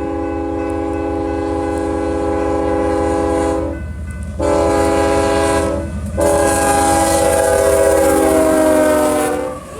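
Horn of Union Pacific GE ES44AC locomotive 8235 sounding three blasts over the low rumble of the train. A long blast ends a few seconds in, a shorter one follows, then a long one whose chord changes pitch near the end.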